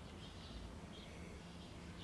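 Quiet background with faint bird chirps, short calls repeating every half second or so, over a low steady hum.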